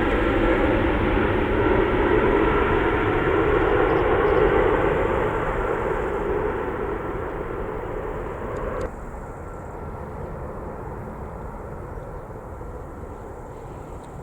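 Large Antonov cargo aircraft's engines running loud, then slowly fading away; about nine seconds in the sound drops suddenly to a fainter engine noise.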